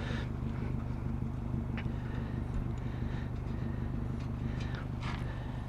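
A vehicle engine idling with a steady low hum, with a few faint clicks and knocks over it.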